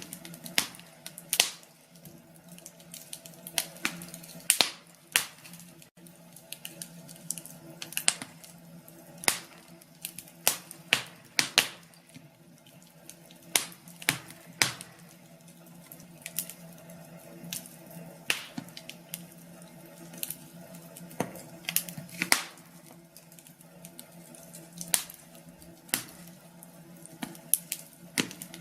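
Wood fire in a fireplace crackling, with irregular sharp pops and snaps every second or so, some much louder than others, over a faint low hum.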